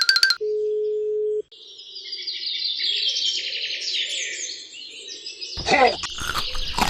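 A steady beep-like tone for about a second, then birds chirping for several seconds. About a second before the end, a quick run of clicks and knocks comes in.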